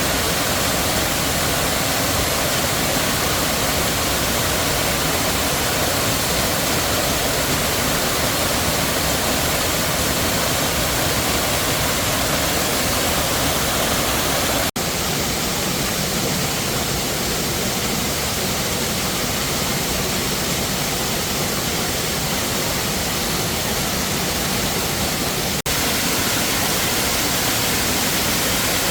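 Waterfall: a loud, steady rush of falling water. It cuts out for an instant twice, about halfway through and again near the end.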